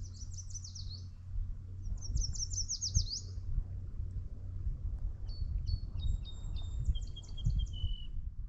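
Wild songbirds singing: two quick trills of rapid, downward-slurred notes, then a second song of short, clear whistled notes at several pitches. A steady low rumble runs underneath.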